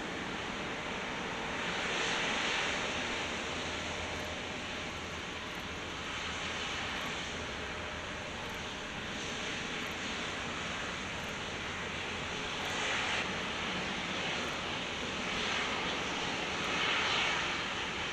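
Jet engines of an Airbus A350-900, Rolls-Royce Trent XWBs, running: a steady rushing noise with no words, swelling louder several times.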